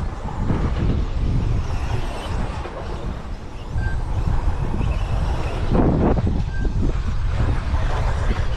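Race-track noise from 1/10-scale RC trucks racing, with wind rumbling on the microphone. Three short, identical high electronic beeps sound a few seconds apart, and a louder burst of noise comes about six seconds in.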